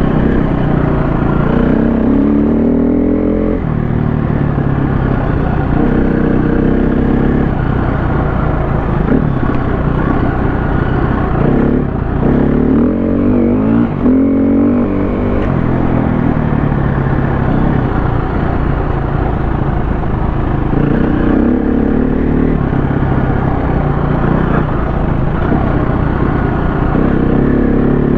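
KTM 350 four-stroke single-cylinder dirt bike engine under way on a trail. The revs climb and fall over and over as the throttle is worked and gears change, with some clatter from the bike.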